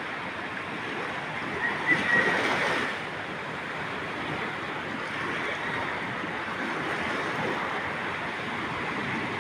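Steady rush of seawater and wind heard from a moving ship, with a brief louder surge about two seconds in.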